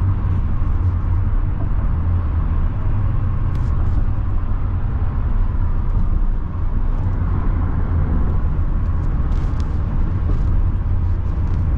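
Steady road and engine noise of a car at highway speed: an even, low rumble with hiss above it.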